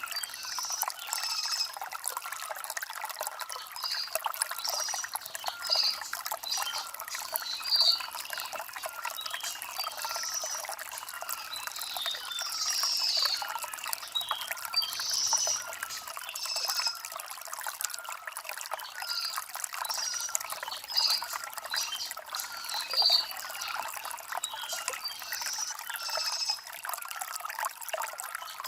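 Shallow stream trickling and gurgling over river stones: a steady, light babble with little deep rumble.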